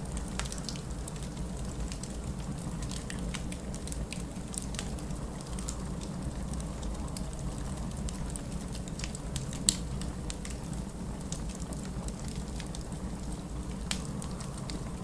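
Wood fire crackling in a fireplace: irregular sharp pops over a steady low rumble, with one louder pop about ten seconds in.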